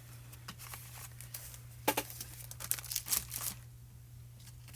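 Sheet of cardstock being handled and positioned for stamping: light paper rustling and small clicks, one sharp click about two seconds in and a flurry around three seconds, then quieter.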